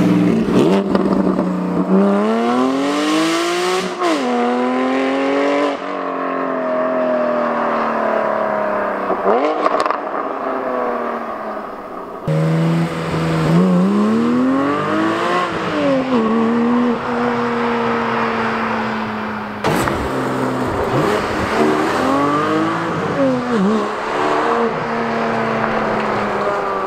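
Porsche 718 GT4's 4.0-litre flat-six with its particulate filter removed and an aftermarket exhaust, revving so the note climbs and drops again several times. The note jumps suddenly a few times where clips are joined.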